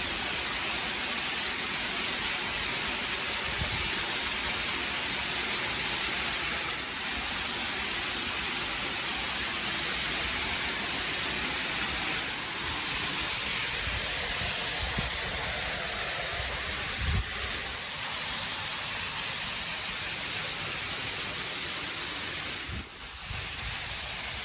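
Waterfall running: a steady, even rush of falling water, dipping briefly near the end.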